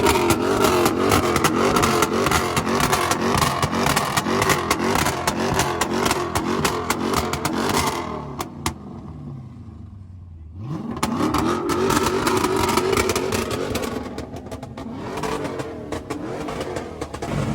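Car engine revving hard with a rapid crackle from the exhaust. About eight seconds in the revs fall away for a couple of seconds, then climb back up and hold high again.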